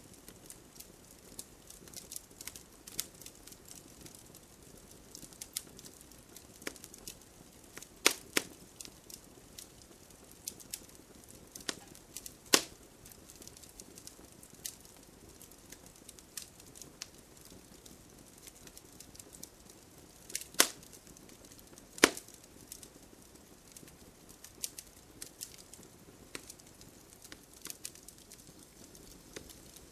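Wood campfire crackling: irregular small ticks and snaps over a low, steady hiss of burning, with a few much louder pops scattered through, two close together about 8 seconds in and others near the middle and about two thirds of the way in.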